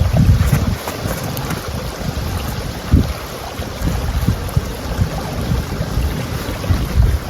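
Wind buffeting the microphone: a gusty low rumble that swells and eases, strongest in gusts at the start, about three seconds in and near the end, with scattered faint ticks above it.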